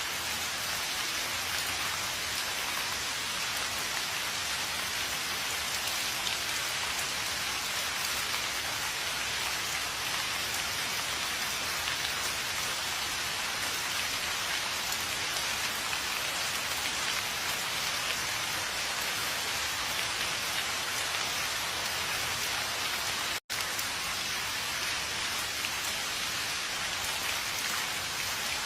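Steady rain falling on a surface, an even hiss with no thunder. It cuts out for a split second about three-quarters of the way through.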